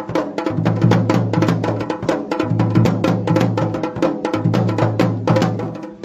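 Dhol and damau drums played together in a fast, dense rhythm of sharp strokes over a deep booming resonance.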